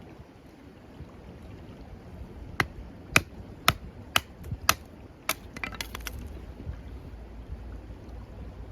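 A tool striking wood: about seven sharp knocks, roughly two a second, then a quick rattle of small clicks, over a steady background of wind.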